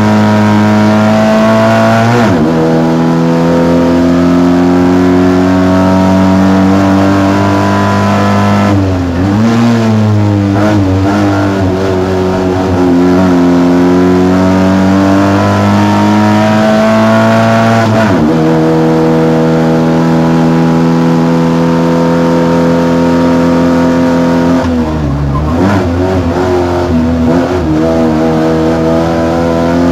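Polski Fiat 126p race car's engine at full effort, heard from inside the cabin. Its loud revving note drops sharply about four times and then climbs again as the driver lifts off and changes gear through the bends of the hillclimb.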